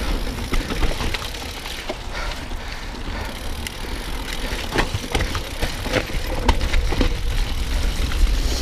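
Mountain bike descending a rough, wet trail: tyre noise with frequent sharp knocks and rattles from the bike going over roots and rocks, over a steady wind rumble on the microphone.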